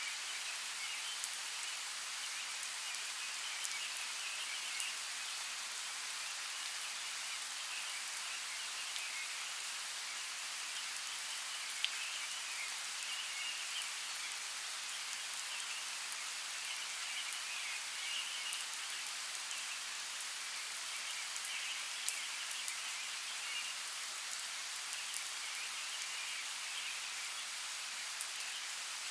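Steady rain falling, an even hiss with scattered sharp drop ticks, two of them louder.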